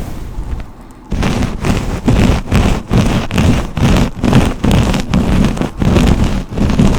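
A hairbrush drawn through hair close to the microphone, quieter for about the first second, then in quick, even strokes about three a second.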